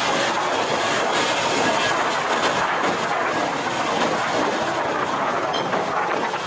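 Jet engines of an Airbus A320 running at takeoff power: a steady, loud rushing noise that holds at one level.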